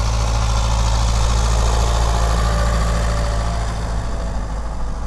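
Ursus 1634 tractor's diesel engine running steadily at a constant speed.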